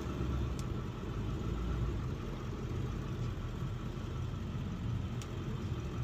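A vehicle engine running at a steady idle, with a couple of faint light ticks.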